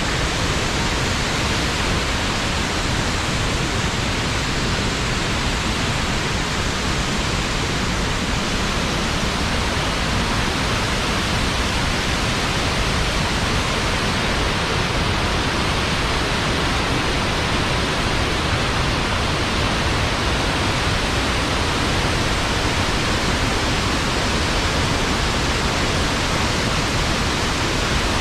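Nooksack Falls' waterfall, a steady full-bodied roar of heavy falling water that keeps an even level throughout.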